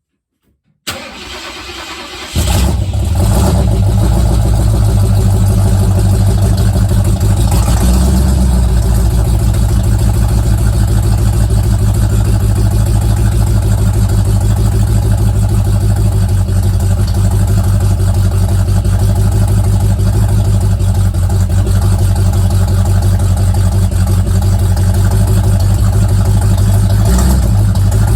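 Ford Mustang engine cold start: the starter cranks for about a second and a half, then the engine catches and settles into a loud, steady fast idle, with a brief rev about eight seconds in. It exhausts through a Y-pipe into a single Cherry Bomb muffler.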